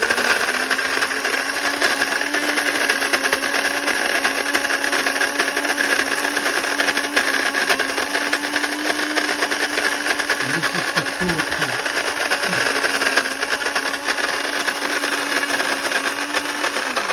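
Melitta Molino electric coffee grinder with flat grinding discs running continuously while grinding coffee beans: a loud, steady whir with a constant low hum.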